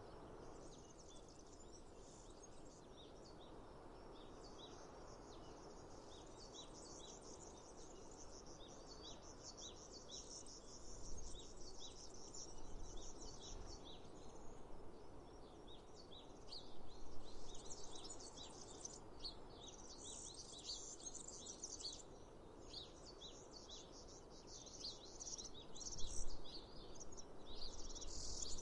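Many small birds chirping and calling in quick, overlapping notes, busier in the second half, over a steady background hush of outdoor ambience.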